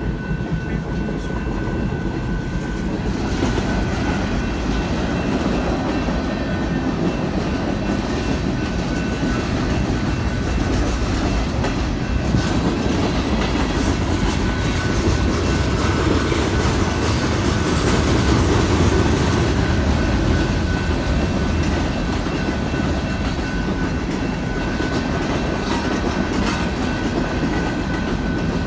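Union Pacific mixed freight train rolling through a grade crossing: a steady rumble of steel wheels on rail with the clickety-clack of passing cars. It grows louder and brighter about three seconds in.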